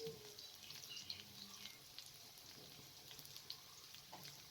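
Faint crackling and popping of cubed potatoes frying in oil in a karahi, with scattered small ticks.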